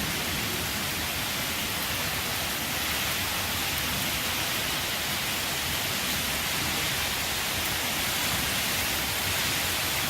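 Heavy rain falling in strong wind: a steady, even hiss with a low, fluttering rumble underneath.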